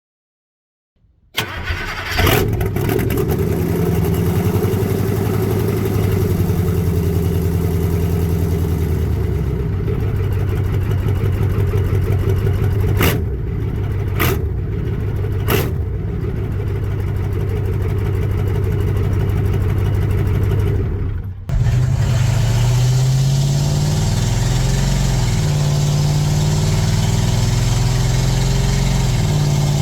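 1988 International S1700's 9.0L V8 diesel, straight-piped, starting about a second in and then running loud and steady. Three sharp cracks come in the middle. After a brief dip about two-thirds of the way through, the engine speeds up and slows down several times.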